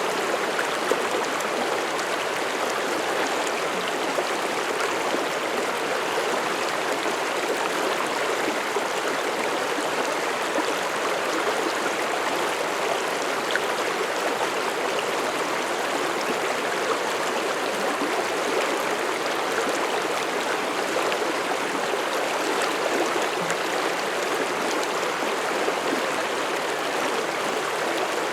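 Mountain stream in a forest, water rushing and burbling steadily over rocks.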